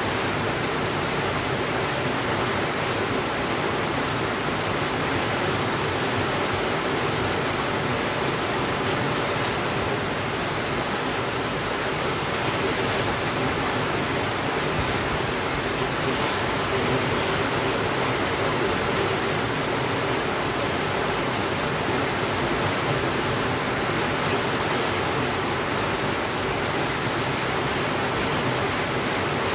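Steady, heavy rainfall: an even, unbroken hiss of rain with no thunder.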